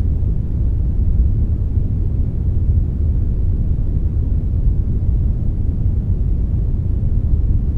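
Steady brown noise mixed with a little white noise: an even, deep rumbling hiss, strongest in the bass and falling away toward the treble, with no change.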